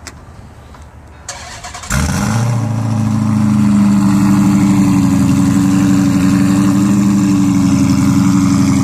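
2012 Dodge Charger SRT8's 392 (6.4-litre) HEMI V8 cranked briefly by the starter, firing about two seconds in and settling into a steady idle. It runs through an aftermarket cat-back exhaust with an aftermarket cam, and sounds really tough.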